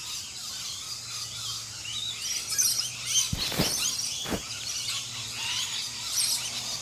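A chorus of wild birds chirping and calling in quick, overlapping phrases, with two short thumps about three and four seconds in.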